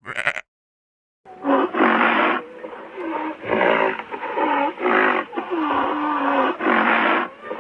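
An animal giving a string of loud, rough calls, each dipping and rising in pitch, starting after a brief silence about a second in.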